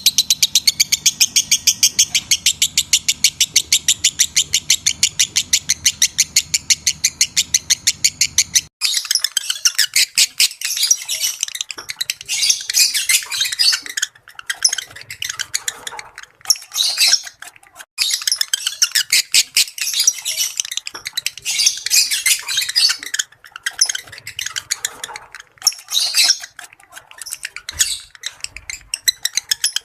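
Lovebird calls of the kind played as a lure to bring lovebirds into breeding condition: first a fast, even run of sharp, high chips, then, about nine seconds in, an abrupt change to dense, irregular chattering and squawking with brief pauses.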